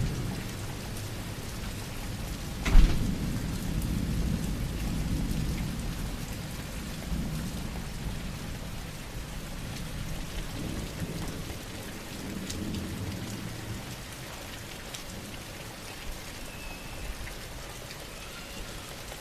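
Steady heavy rain, with a sharp thunderclap about three seconds in that rolls on as a low rumble, slowly fading over the next ten seconds or so.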